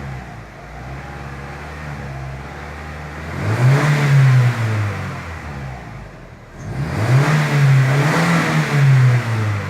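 Vehicle engine idling, then revved twice, its pitch rising and falling each time, the second rev held a little longer.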